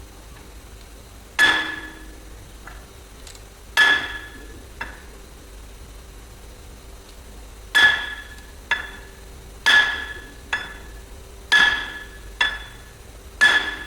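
Hammer blows on ringing steel: six loud strikes, most followed by a lighter one, about every two seconds, with a pause in the middle.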